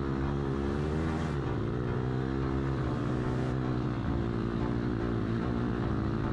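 Lada Niva 4x4's engine running steadily, its pitch rising and falling with the revs.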